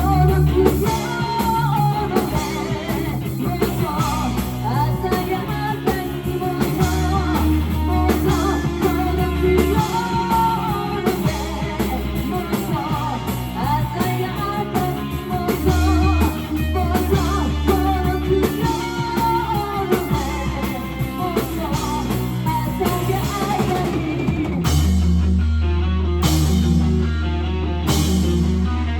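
Live rock band playing, with a singer over electric guitar, bass and drum kit. Near the end the singing stops, leaving a held bass note and drum hits.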